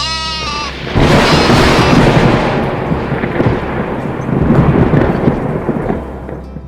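A goat bleats once briefly, then a loud, long rumbling noise takes over for about five seconds and fades near the end, over low background music.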